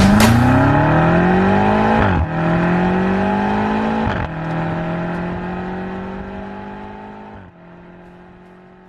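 BMW M3 accelerating hard through the gears: the engine note climbs, drops sharply at three upshifts about two, four and seven and a half seconds in, and climbs again after each, growing steadily fainter.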